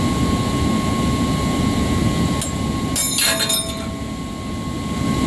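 Metal parts clinking and ringing during a centrifugal pump teardown: a single click about two and a half seconds in, then a short run of clinks a little later, over a steady low machinery rumble.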